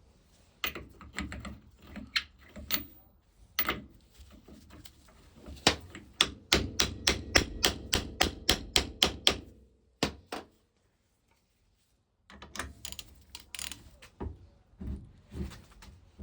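Metal hand tools clinking and knocking as a socket is fitted, then a run of about sixteen even clicks, roughly four a second, from a ratchet handle being turned on a stuck plug, followed by more scattered knocks.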